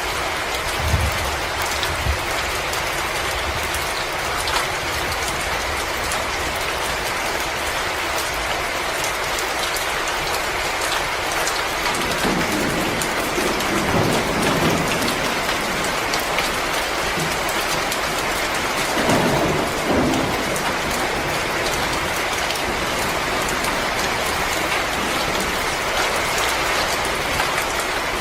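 Wood fire crackling in a fireplace: a steady hiss full of small, quick pops. A couple of low thumps come near the start, and two low rumbling swells come a little before halfway and again about two-thirds in.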